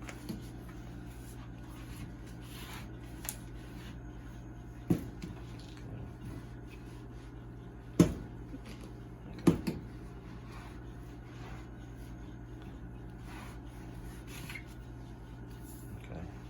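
Wet mop being worked over a small patch of floor, faint and scrubbing, with three sharp knocks about five, eight and nine and a half seconds in, over a steady low hum.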